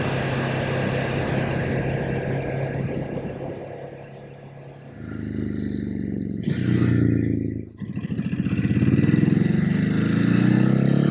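Ducati Hypermotard's V-twin engine running at a steady cruise, then pulling harder about five seconds in; the revs drop briefly for a gear change and then climb steadily as the bike accelerates.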